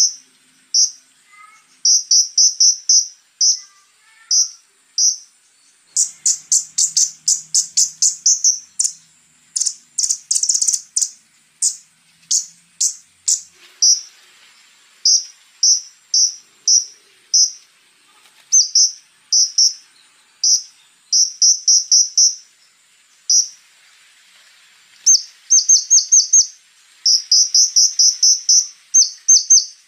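Konin (kolibri ninja) singing in bouts of short, sharp, very high chirps, with faster rattling runs about six and ten seconds in. A thin, steady, high insect-like buzz runs underneath.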